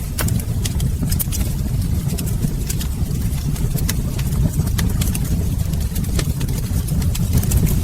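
Fireplace fire burning: a steady low rumble with frequent sharp, irregular crackles and pops.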